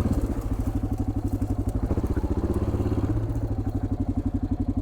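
1987 Yamaha XT600Z Ténéré's single-cylinder four-stroke engine running at low revs, an even, rapid train of firing pulses; the note shifts slightly about three seconds in.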